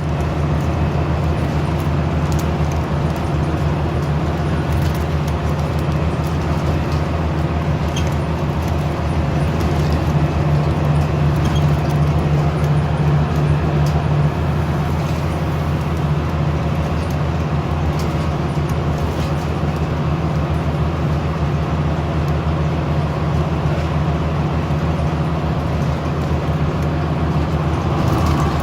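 Scania OmniCity single-deck bus heard from inside the passenger saloon while under way: a steady low engine drone over road and body noise.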